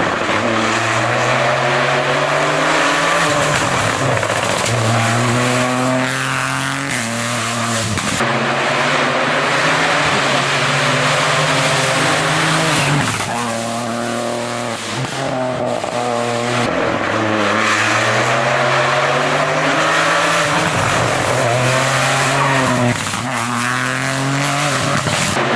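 Rally car engines at full racing speed, the engine note climbing hard and dropping again every few seconds as the cars shift gears and lift off.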